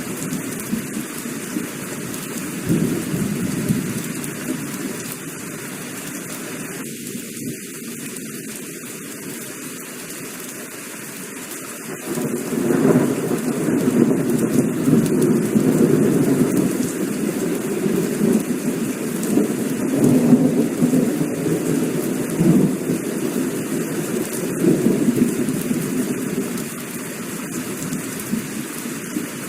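Heavy rain falling steadily under rolling thunder. The deep rumble grows louder about twelve seconds in, then swells and eases in waves.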